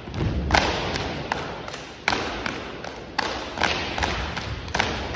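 Unarmed drill team's stomps and hand slaps: heavy foot stomps land every second or so, with sharper claps and body slaps between them, each ringing out briefly in the hall.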